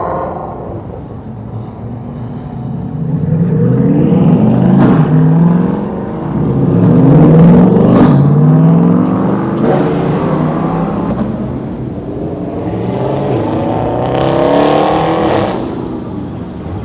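Performance car engines revving and accelerating as cars drive past one after another. The engine pitch climbs and falls in several loud swells.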